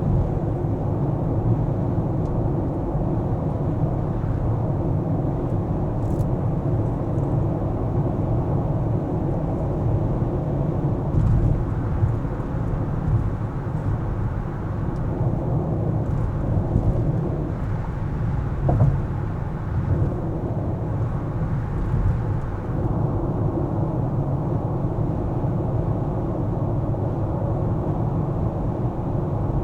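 A car driving through city streets: a steady rumble of engine and tyre noise with a low hum, and a few small bumps and knocks along the way.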